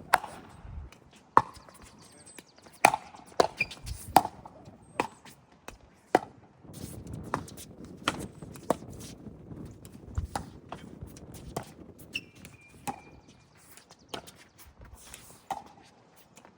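A pickleball rally: paddles striking a hard plastic pickleball in sharp pops, roughly one every half second to a second and a half. There is low wind rumble on the microphone, heaviest in the middle of the rally, and a short high squeak about twelve seconds in.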